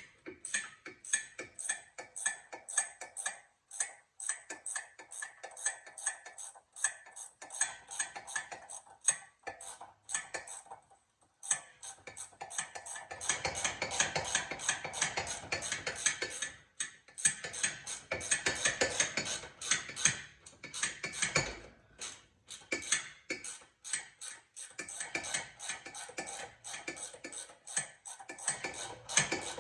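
Ratchet wrench clicking in quick repeated runs while a sway bar link nut is backed off its stud, with a few short pauses between runs.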